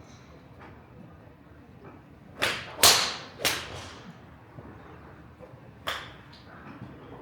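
Golf clubs striking balls: three sharp cracks in quick succession, the middle one loudest, and a fourth a couple of seconds later.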